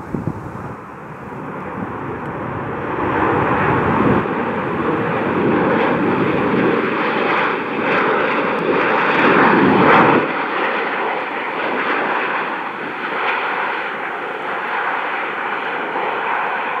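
Jet engines of a landing WestJet Boeing 737-8CT airliner. The noise builds over the first few seconds and stays loud, easing slightly and losing its deep rumble after about ten seconds.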